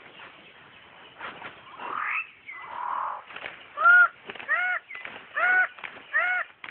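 Bird of paradise calling in the rainforest: from about four seconds in, a run of four loud, nasal, arched notes, one roughly every 0.8 seconds, after scattered clicks and a short rising call.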